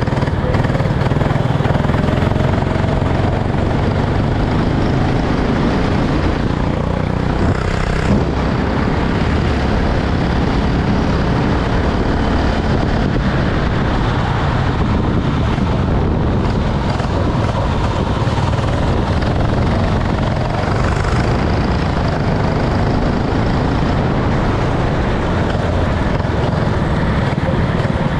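Racing kart engine running steadily at speed, a constant, loud mechanical drone.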